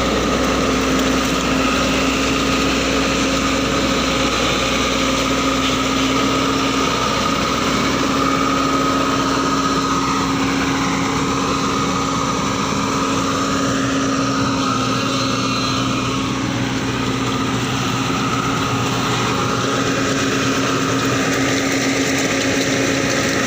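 Engine of a heavy earthmoving vehicle running steadily at an even pitch.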